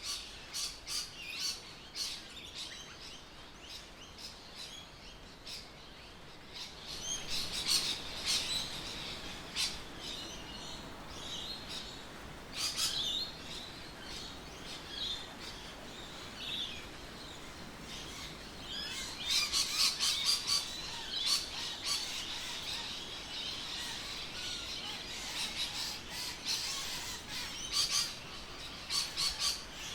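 Birds chirping and calling, several at once, with quick high chirps and trills that come in busier spells now and then.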